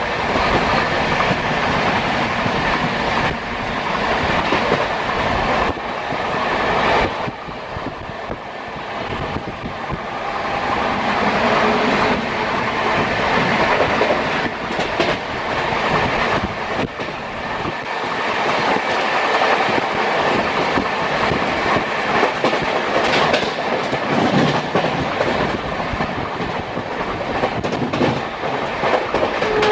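Passenger train coaches running at speed, heard at an open coach doorway: a continuous rumble of steel wheels on rail, with the clickety-clack of wheels over rail joints.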